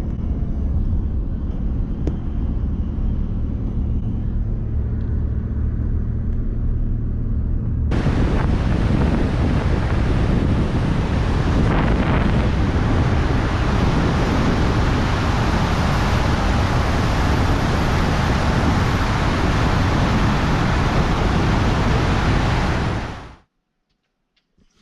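Car driving on the road: steady low engine and road rumble with a faint hum, then from about eight seconds a louder, even rushing noise of wind and tyres that cuts off abruptly near the end.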